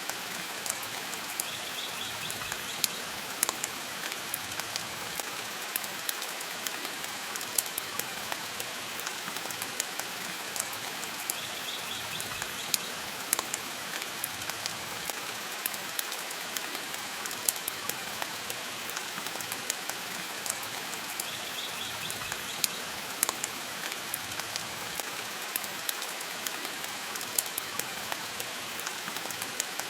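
Steady rain hiss with frequent sharp, irregular pops and crackles from a wood fire burning in a stone fireplace.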